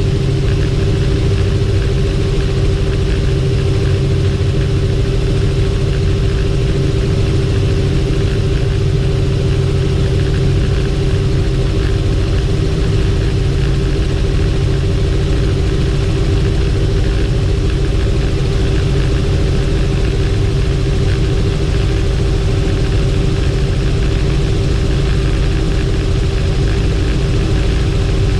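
Helicopter in flight, its turbine and rotor making a steady, unchanging drone with a constant mid-pitched tone over a deep hum.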